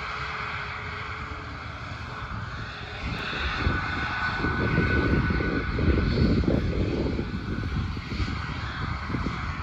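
Aircraft engines passing: a rumble that swells from about three seconds in, with a steady high whine over it, peaks, then eases off.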